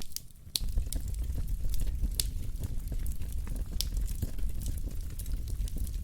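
Wood fire burning in a fireplace, crackling with scattered sharp pops over a low steady rumble. The sound briefly drops away just after the start, then comes straight back.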